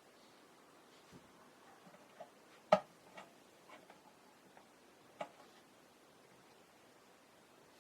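A few sharp clicks and light taps, as of small plastic model parts and hobby tools being handled on a workbench. The loudest click comes about three seconds in, a second one about five seconds in, with fainter ticks between.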